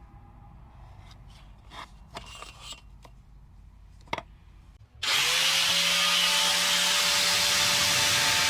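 A few light handling knocks and rubs. About five seconds in, the 775 DC motor of a homemade PVC-pipe saw is switched on: it spins up within half a second and then runs at a steady high speed, with a constant whine over a loud hiss.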